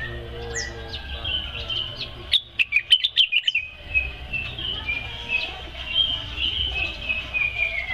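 Cucak wilis leafbird singing busily in fast runs of short high chirps. About two to three seconds in comes a burst of sharp clicks, the loudest part, over a steady low hum.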